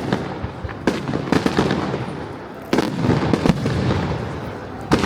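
Aerial fireworks going off: a run of sharp bangs, roughly a second apart, each dying away in a rolling echo.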